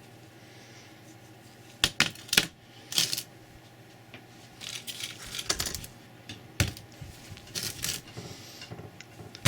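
Sharp, irregular clicks and clatters of a smashed Samsung Galaxy S2's loose plastic, glass and metal pieces being handled and pried at. They start about two seconds in and come in small clusters.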